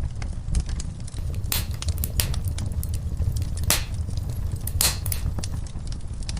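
Wood fire crackling in a fireplace: sharp snaps and pops, with several louder pops in the middle, over a steady low rumble.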